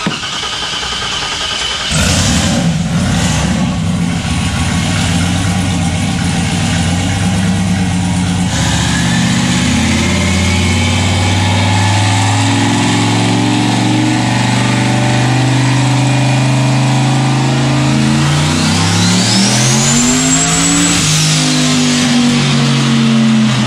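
Turbocharged junkyard V8 in a Corvette on a chassis dyno, running steadily, then making a short, gentle first-gear pull about eighteen seconds in. The revs and a high turbo whistle rise together, then fall away near the end.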